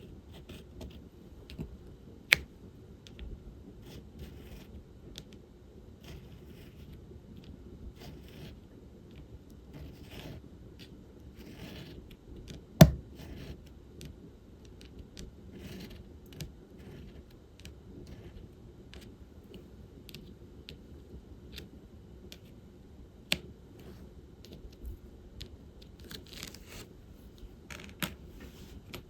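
Diamond painting at work: a drill pen picking resin drills out of a tray and pressing them onto the sticky canvas, making irregular small clicks and light scraping. Three sharper taps stand out, the loudest about halfway through.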